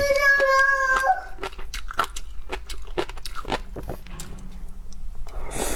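Close-up biting, crunching and chewing of seafood: a run of sharp cracks and clicks. A short held voice-like tone is heard in the first second.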